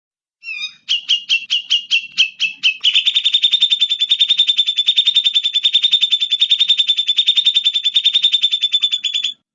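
Recorded songbird song for bird training: a short call, then a run of evenly spaced high notes about five a second, speeding into a fast, even, high trill of about a dozen notes a second that stops abruptly near the end.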